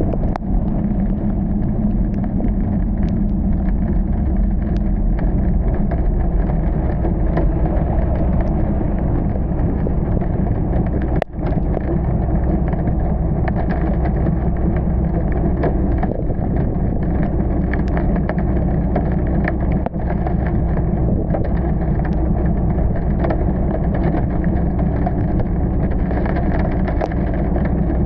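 Steady low rumble of a car driving on wet roads in heavy rain, with engine and tyre noise and many small ticks of raindrops striking the car.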